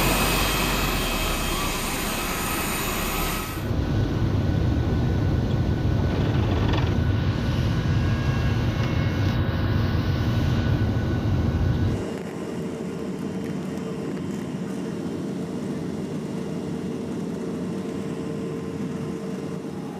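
Boeing 737-900ER jet airliner noise in three sudden stretches. First a loud high hiss with steady whining tones, then from about four seconds a heavy low rumble, and from about twelve seconds a quieter steady hum with one held tone.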